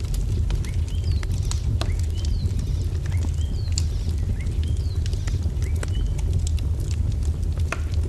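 Wood fire crackling with sharp irregular pops over a steady low rumble, mixed with small birds chirping: short curved whistles, about one a second.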